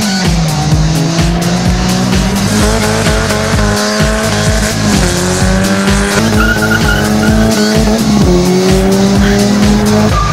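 A car's engine accelerating hard through the gears, its pitch climbing and dropping back at each shift, several times over, mixed with background music that has a steady beat.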